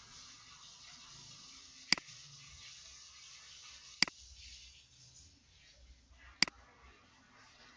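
Three sharp computer mouse clicks, about two seconds apart, over a faint steady hiss.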